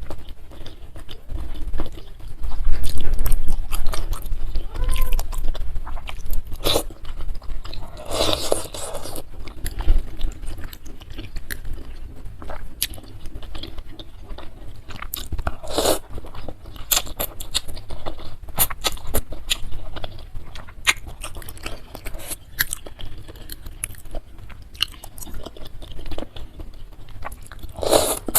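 Close-miked chewing and crunching of bakso toppings, beef tetelan (tendon and cartilage) and soft chicken feet, with many sharp crunches throughout and a few louder bites.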